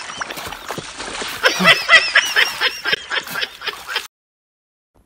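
Splashing and sloshing in muddy paddy water as a person flounders and crawls through it, with a person's repeated voiced cries over it about one and a half seconds in. The sound cuts off suddenly about four seconds in.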